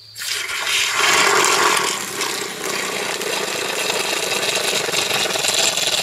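Hot vinegar-and-water mixture rushing out of the Suburban RV water heater's opened pressure relief valve in a steady gush, loudest about a second in.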